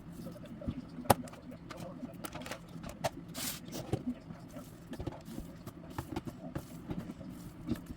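Plastic food containers being filled with homemade dog food: scattered clicks and knocks, with a sharp click about a second in and a short scrape a little after three seconds.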